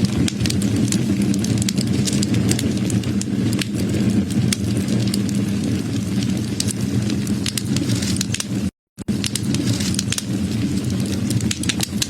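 Wood fire crackling, with many small sharp pops over a steady low rush of burning. The sound cuts out completely for a fraction of a second about two-thirds of the way through, then resumes.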